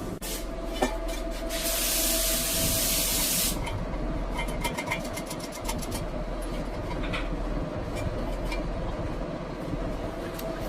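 A hiss lasting about two seconds, like a spray, followed by a quick run of clicks and a few scattered knocks, over a steady low hum.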